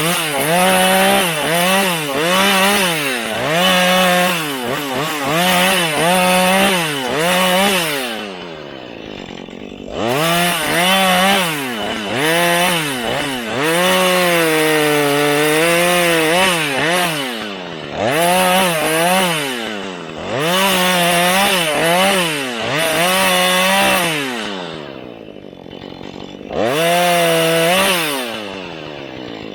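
Husqvarna 435 two-stroke chainsaw cutting wood, its engine revved up and let back down over and over. It drops back to idle briefly a few times between cuts.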